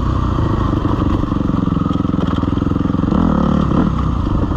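Suzuki RM-Z250's single-cylinder four-stroke engine running at low revs as the dirt bike picks its way down a steep, rocky trail, with a short burst of throttle about three seconds in.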